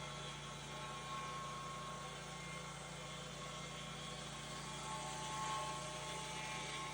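Steady motor hum with several steady whining tones above it, swelling slightly about five seconds in.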